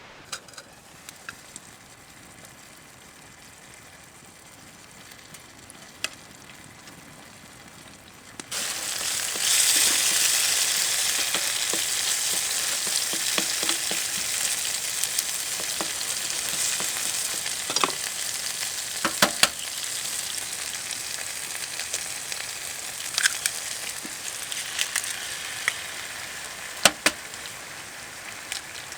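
Food frying in a hot pan: a sudden loud sizzle starts about a third of the way in, as food hits the pan, and slowly dies down, with occasional clicks and scrapes of a utensil stirring.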